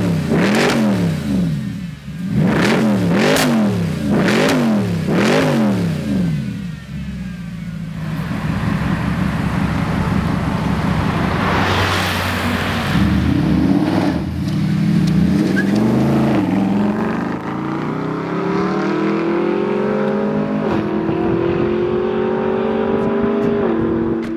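Mercedes SLS AMG's 6.2-litre V8 through an aftermarket Akrapovic exhaust, loud: about five sharp revs blipped up and down, then the car running and pulling away, its pitch climbing and dropping back twice near the end as it shifts up.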